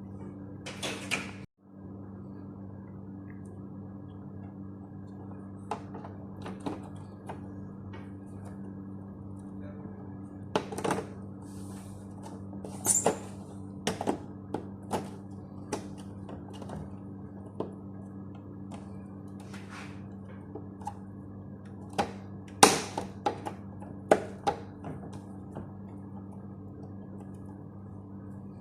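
A steady low electrical hum, with scattered sharp clicks and knocks of small objects being handled on a hard surface.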